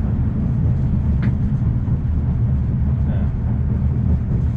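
Steady low rumble of the Afrosiyob high-speed train (a Talgo 250 trainset) running on the line, heard from inside the passenger car, with a faint tick about a second in and faint voices in the background.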